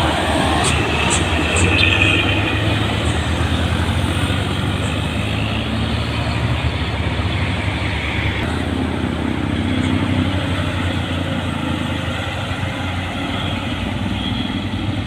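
Heavy truck's diesel engine running steadily, a low drone with road noise.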